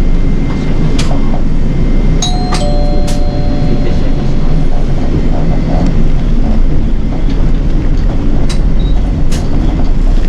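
Nishitetsu city bus under way, heard from inside: a steady low rumble of engine and road noise with scattered rattles and clicks from the cabin. About two seconds in, a short two-note electronic chime sounds.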